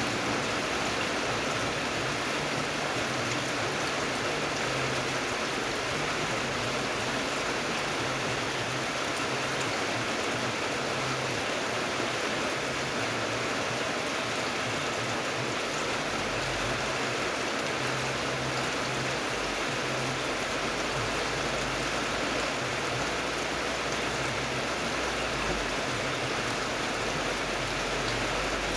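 Steady rain falling: an even, unbroken hiss of rainfall with no pauses.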